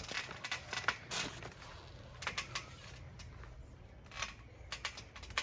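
Faint, irregular clicks and rustles, a dozen or so short sharp ticks over a low background.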